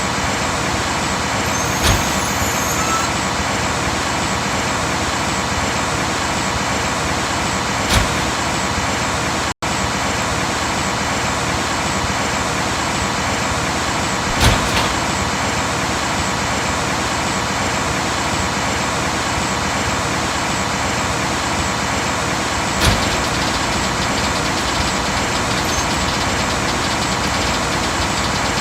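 A Mack rear-loader garbage truck running steadily, with four single knocks spread through.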